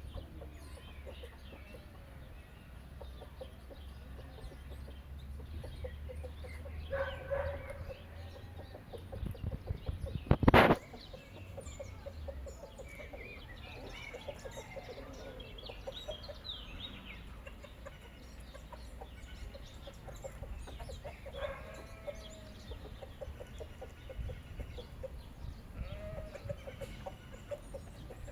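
Chickens clucking on and off, with a low rumble under the first part. One loud, brief knock-like sound cuts across about ten seconds in.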